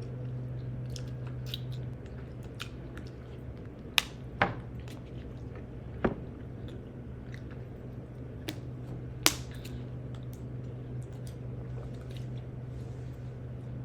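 Close-miked chewing and mouth sounds of a person eating, with a few sharp clicks scattered through and a steady low hum underneath.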